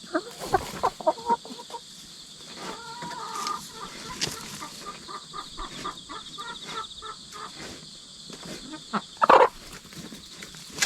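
Chickens (young hens) clucking: a quick run of short clucks, a longer drawn-out call, then repeated short clucking notes, with a loud short burst about nine seconds in.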